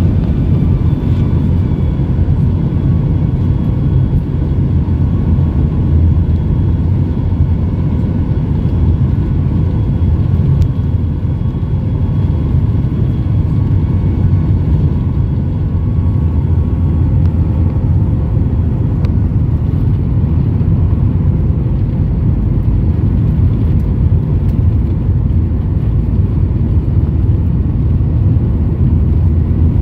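Jet airliner noise heard from inside the passenger cabin: a steady, loud low rumble of the engines and airframe.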